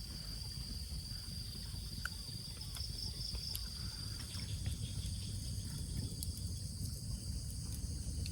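Insect chorus trilling steadily in a high pitch, over a constant low rumble.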